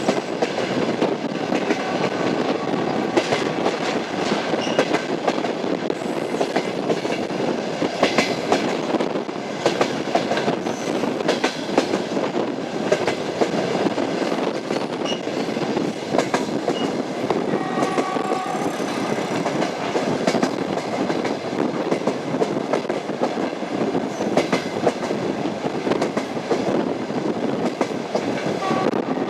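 Train wheels clattering over the rail joints as a train runs along, a steady rumble full of frequent clicks.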